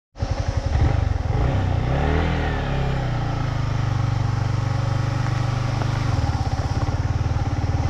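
Motorcycle engine running while riding. It revs up and back down about two seconds in, then holds a steady pitch.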